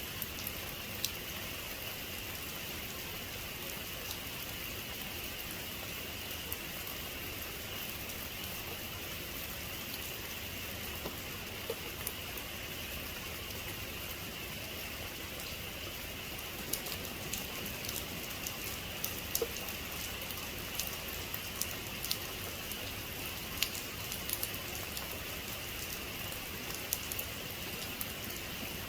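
Steady rain falling, an even hiss with sharp individual drops ticking on a surface, the ticks coming more often in the second half. No thunder.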